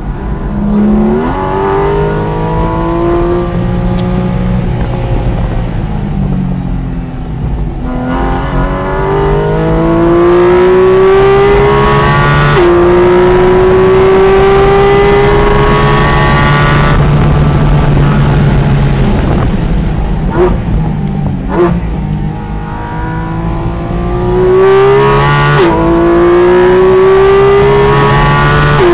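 Car engine heard from inside the cabin, running hard on a race track: the revs climb through the gears with sudden drops at the upshifts. Partway through, the throttle comes off for a braking zone with two short rev blips, then the engine pulls hard again and shifts up once more near the end.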